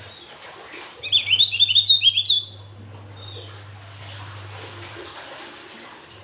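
A songbird sings a quick, loud burst of rapid rising-and-falling chirps lasting about a second and a half, then a single faint note, over a steady low hum.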